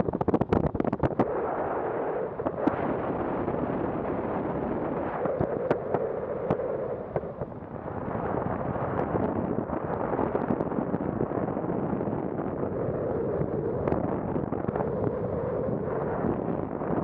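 Wind rushing and buffeting over an action camera's microphone, with frequent crackles and pops, densest in the first second.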